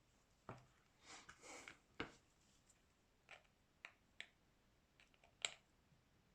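Faint, scattered clicks and taps of small repair tools and plastic phone parts being handled, with a short scraping sound about a second in and the sharpest click near the end.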